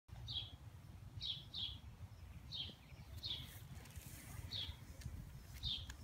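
A bird chirping: about seven short, high chirps at irregular intervals, over a low steady rumble.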